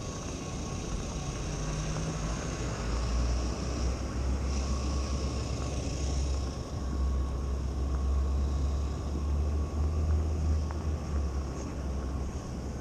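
City street noise outdoors in winter, dominated by a low rumble that builds about a second and a half in and eases near the end.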